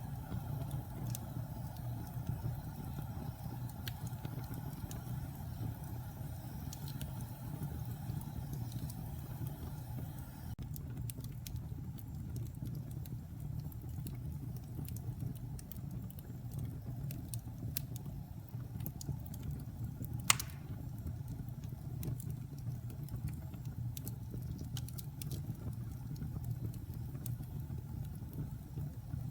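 Wood fire burning in a fireplace: scattered small crackles over a steady low rumble, with one sharp, louder pop about two-thirds of the way through.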